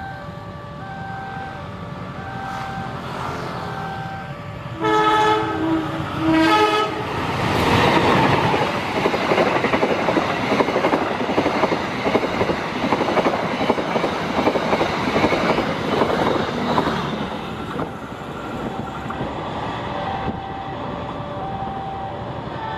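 Level-crossing warning alarm sounding in a repeating pattern of alternating tones, then two horn blasts from an approaching diesel locomotive about five seconds in. A passenger train then passes close by for about ten seconds, loud with rumble and wheel clatter, and the crossing alarm is heard again near the end.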